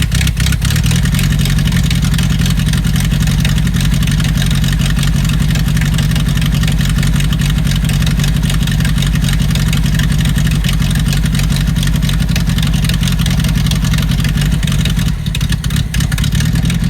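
Carbureted four-cylinder engine of a 1982 Datsun wagon running steadily just after starting, stumbling briefly near the end. It is an engine that won't idle on its own, with a vacuum line found open.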